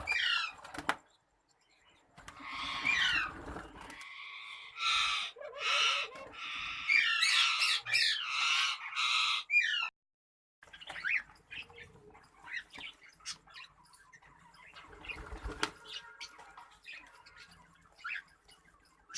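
Small parrots squawking and chirping: a loud run of harsh repeated calls in the first half, then softer scattered chirps.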